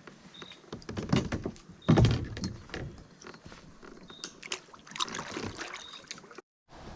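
Irregular knocks and thumps against a kayak's hull, with the loudest thump about two seconds in. The sound cuts out briefly near the end.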